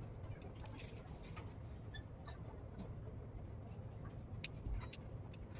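Crunching of chalk: irregular small crackles and snaps, with a few sharper ones about four and a half and five seconds in, over a steady low hum.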